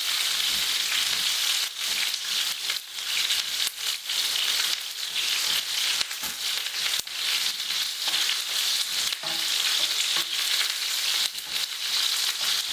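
Chicken breasts searing in a hot frying pan, sizzling steadily with frequent crackles and pops as they take on colour.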